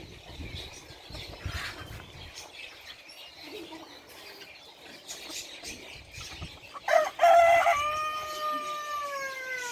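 Rooster crowing once, about seven seconds in: a short broken opening, then a long drawn-out final note that slides down in pitch.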